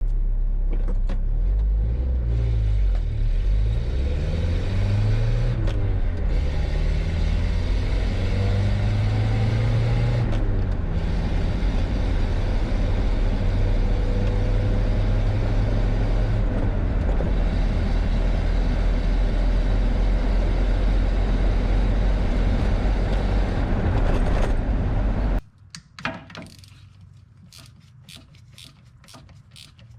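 1988 Nissan D21 pickup's 2.4L Z24 four-cylinder engine running as the truck drives, a steady engine and road sound whose pitch rises and falls through the first ten seconds. About 25 seconds in it cuts off suddenly, leaving only faint clicks.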